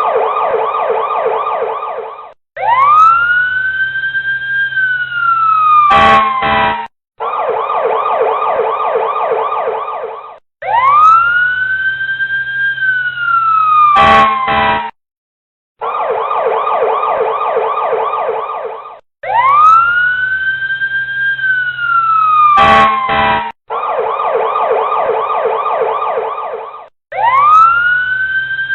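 Electronic emergency-vehicle siren looping through its patterns. It plays about three seconds of a fast pulsing yelp, then a wail that sweeps up, holds and slides down, cut off by two or three short sharp blasts. The cycle repeats about every eight seconds with brief gaps between sections.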